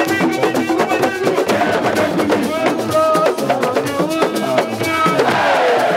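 Fast, dense drumming with voices singing and chanting over it, a loud continuous celebration rhythm.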